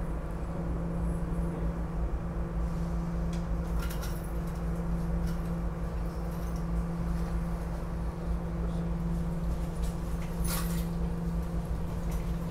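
Interior of a SEPTA Regional Rail passenger car in motion: the steady hum and low drone of the train running through a tunnel into an underground station. Scattered clicks, with a short hiss about ten seconds in.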